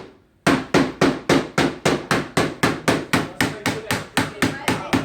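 Rapid, steady hammering, about five blows a second. It resumes after a brief pause about half a second in, each blow with a slight ring.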